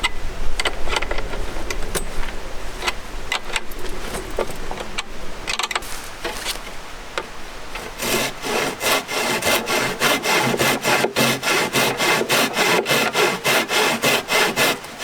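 Scattered knocks and handling of wood, then a hand saw cutting through wood in steady back-and-forth strokes, about three a second, starting about halfway through.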